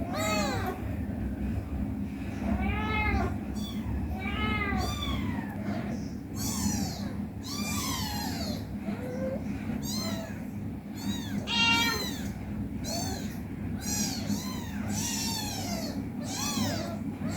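An 18-day-old kitten mewing again and again: a string of short, high-pitched mews that rise and fall, coming faster in the second half, over a steady low hum.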